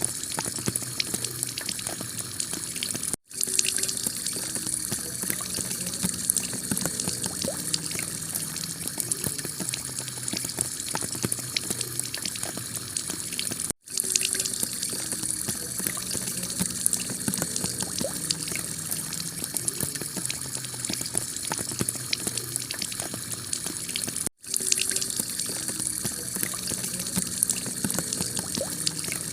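Heavy rain pelting a clay-tiled roof, a steady dense hiss full of small drop ticks. It cuts out briefly three times, about ten seconds apart.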